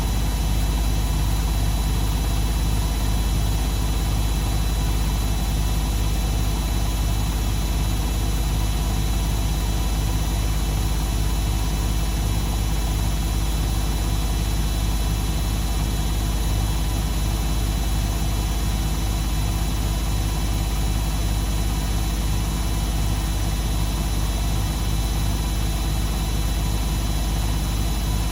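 Beko WMD 46160 washing machine running steadily: an even motor hum with a fast, regular pulsing low down and no change over the whole stretch.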